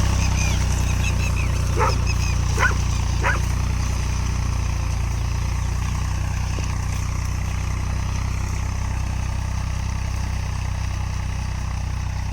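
Tractor engine running steadily, with a dog barking three short times about two to three seconds in.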